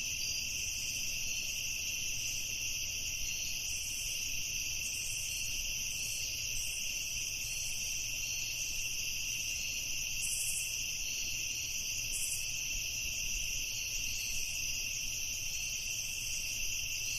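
Steady, high-pitched chorus of night insects, such as crickets, trilling continuously without a break.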